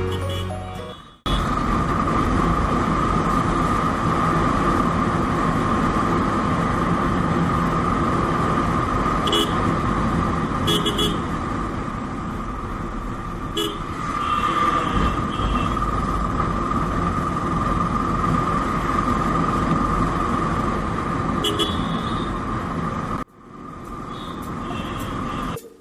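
Road noise heard while riding in traffic, steady throughout, with several short horn toots. A cut near the end leads into a similar stretch of road noise.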